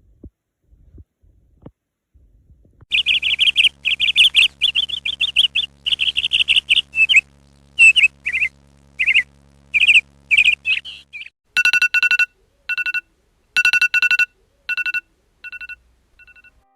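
Bird chirping in rapid high trills. These are followed by a run of evenly spaced, flat whistled notes that grow fainter near the end.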